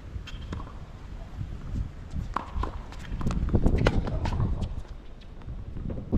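Wind buffeting the microphone with a low rumble that swells in gusts, over sharp knocks of tennis balls being struck and bouncing, and footsteps on the court.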